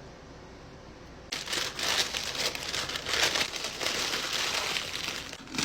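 Wrapping or packaging being handled, crinkling and rustling for about four seconds, starting a little over a second in.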